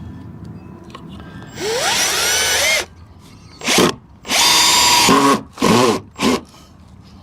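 Power drill driving screws into wooden fence boards. One run with a rising whine starts about a second and a half in, followed by four shorter bursts.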